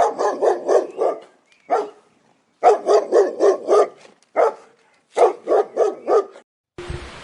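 A dog barking in quick runs of several barks, about four a second, with short pauses between runs. A quieter steady noise starts just before the end.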